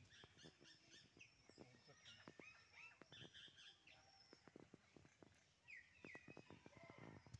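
Faint birds chirping and calling in short repeated notes, with scattered soft clicks.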